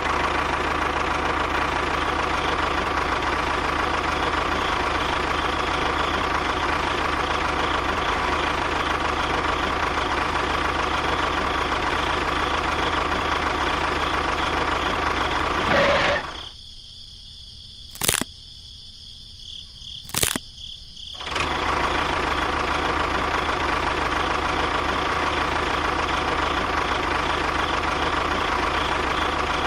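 A small motor running steadily with a constant whine. It cuts out for about five seconds past the middle, with two sharp clicks in the gap, then starts again and runs on.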